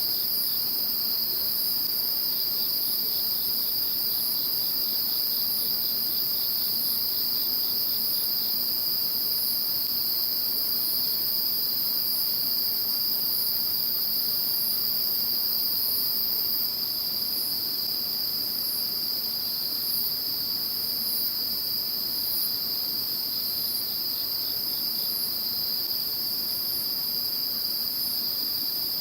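Chorus of crickets and other insects: a steady, high, continuous trill, with a second insect's rapid pulsed chirping over the first eight seconds or so and again briefly near the end.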